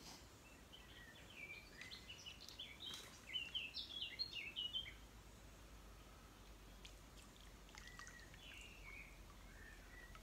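A small bird singing: a quick run of high chirping notes from about one to five seconds in, then a few more near the end, over faint outdoor background noise.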